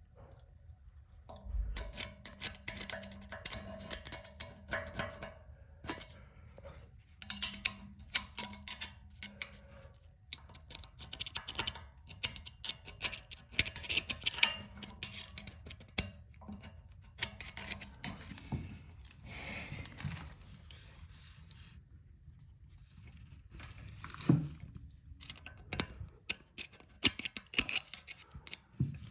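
Irregular scraping, scratching and clicking of hands cleaning and handling a leaking steam pipe fitting, with two short hissing spells in the second half.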